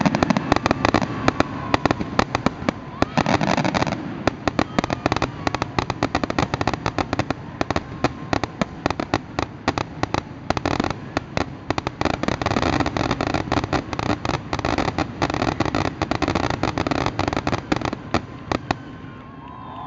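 Fireworks grand finale: a dense, rapid barrage of bangs from bursting shells, many per second, thinning out and fading near the end.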